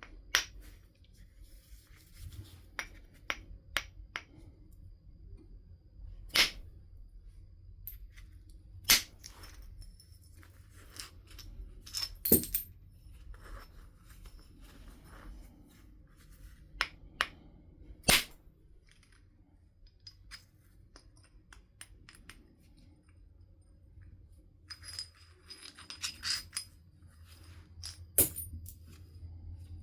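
Flintknapping: a percussor striking the edge of a flint nodule, each blow a sharp crack or clink as a flake comes off. About six hard strikes come several seconds apart, with lighter taps and clinks of stone between them.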